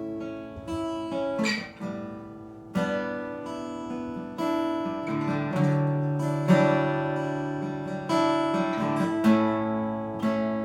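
Acoustic guitar playing a series of strummed chords, each left to ring.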